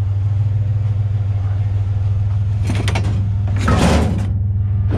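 Pickup truck engine idling steadily, with two short noisy clatters about three and four seconds in.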